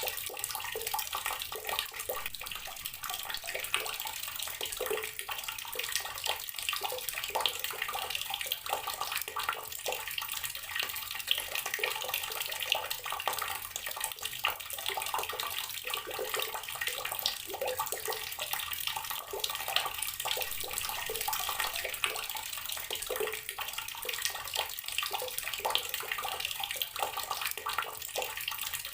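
Garden water tap running steadily, the stream splashing and spattering onto the ground below.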